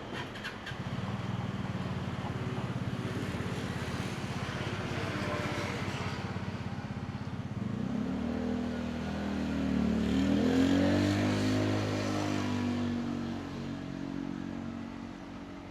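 Passing road traffic. A vehicle engine runs with a low, steady rumble, then from about eight seconds in an engine note rises and bends as a vehicle passes, loudest around ten seconds in and fading near the end.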